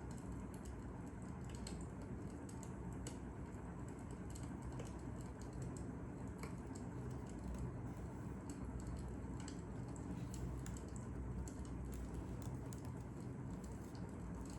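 Crackling fire: sharp, irregular pops and clicks over a steady low rumble.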